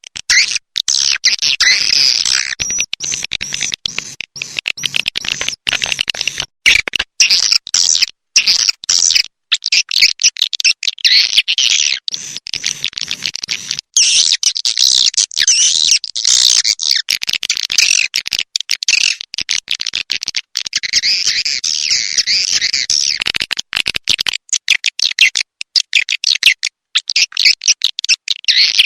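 Swiftlet lure recording of the kind played to draw swiftlets to a nesting house: dense, rapid, high-pitched chirping and twittering of many swiftlets, broken by frequent abrupt short cutouts.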